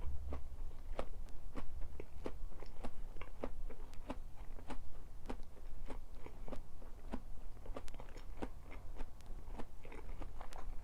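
Close-miked chewing of food, with sharp, regular chews at about three a second.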